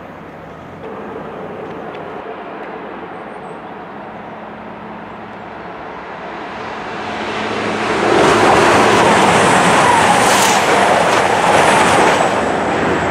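Class 222 Meridian diesel multiple unit passing through the station at speed. Its rushing noise builds as it approaches, stays loud for a few seconds as it goes by, and begins to fade near the end.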